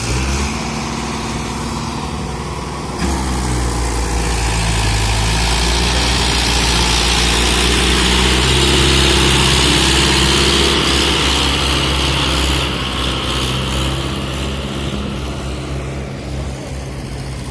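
Sonalika DI 47 RX diesel tractor engine running steadily under a full load. It jumps louder about three seconds in, swells to its loudest near the middle, then eases off.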